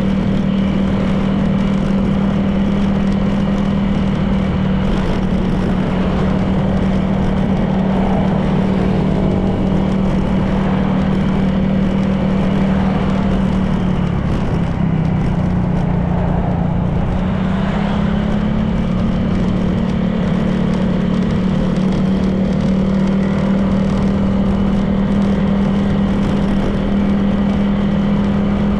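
Honda PCX 160 scooter's single-cylinder engine running at a steady cruise, with a steady rush of wind and road noise. Its pitch eases off a little about halfway through, then rises again.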